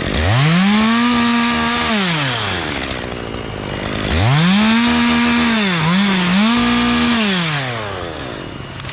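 Two-stroke chainsaw revved to full throttle twice: the engine note climbs quickly, holds high for a second or two, then falls back to idle. The second run dips briefly in the middle before picking up again.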